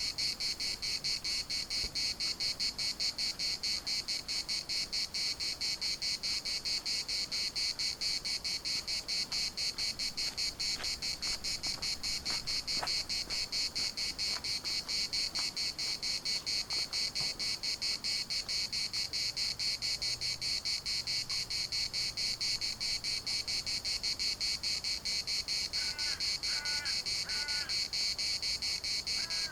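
A chorus of cicadas: a steady, dense, high-pitched buzz made of very rapid pulses, holding an even level throughout.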